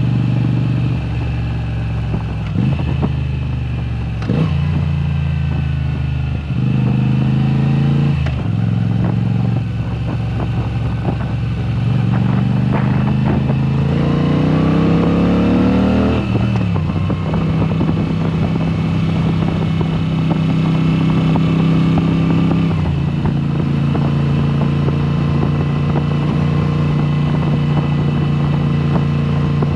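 Moto Guzzi V7 Special's air-cooled 853 cc V-twin through a Mistral exhaust with the dB killers removed, pulling through the gears. The pitch climbs and drops sharply at each shift, the longest climb coming about halfway through. It then runs steadily at cruising speed, with another drop in pitch near the end.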